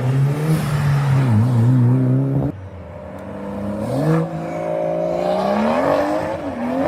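A modified car's engine held at high revs, cut off sharply about two and a half seconds in, then an engine accelerating hard with its pitch climbing steadily toward the end.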